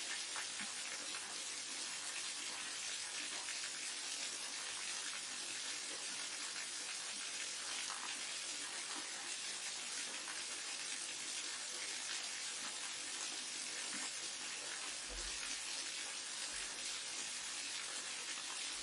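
Waterfall rushing water, a steady even hiss with little low rumble.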